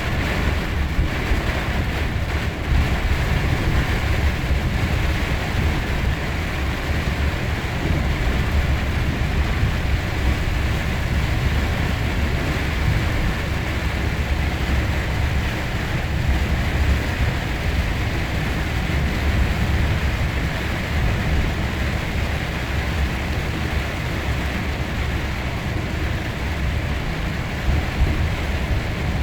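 Steady rumble and hiss of rain and wet-road noise, with wind buffeting the microphone.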